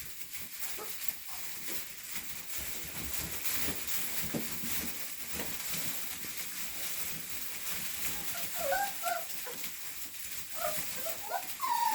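Rottweiler puppies whimpering in short, high squeaks, a few about two-thirds of the way through and more near the end, over a steady hiss and small rustling clicks.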